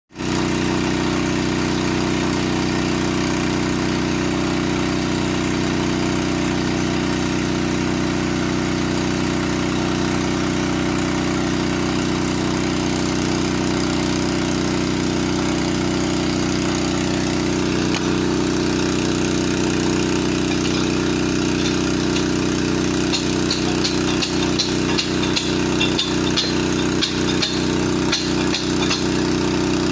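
An engine running steadily at a constant speed, with a quick series of sharp knocks starting about three-quarters of the way through.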